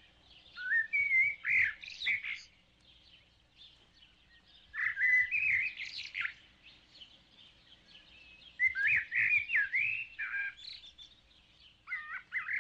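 A bird singing: four short phrases of quick, gliding chirps and warbles, separated by pauses of about two seconds.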